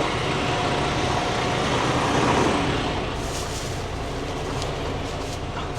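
Steady low rumble of an idling diesel truck engine, with a few light clicks of items being handled in the second half.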